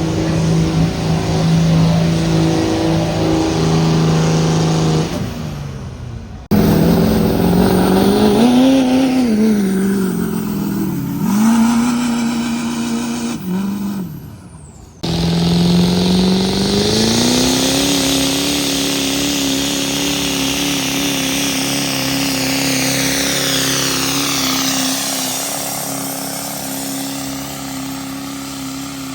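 Diesel pickup truck engine running hard under load, its pitch holding steady, swinging up and down, then climbing and holding high through the second half. The sound cuts off abruptly twice and restarts at a different pitch.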